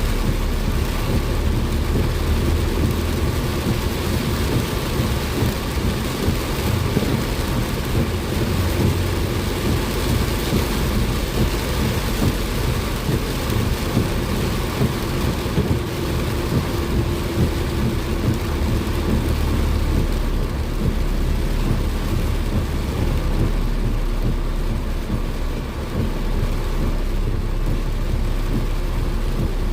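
Heavy rain pounding steadily on a moving car, with the low rumble of the car and its tyres on a wet road underneath.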